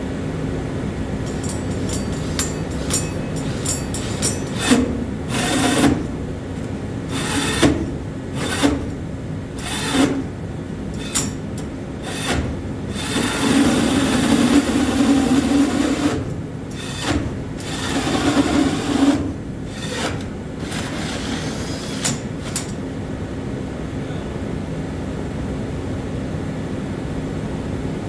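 Power drill boring a hole in short bursts, with scraping and knocking as the bit is worked in and pulled back, over a steady background hum. The drilling stops a few seconds before the end.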